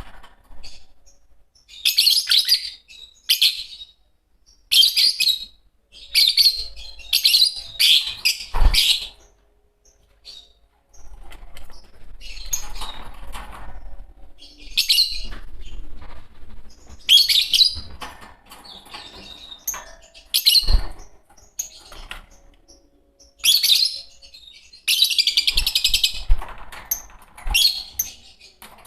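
A pair of Fischer's lovebirds chirping in shrill, high bursts of rapid calls with short pauses between them. There are a couple of short low knocks mixed in.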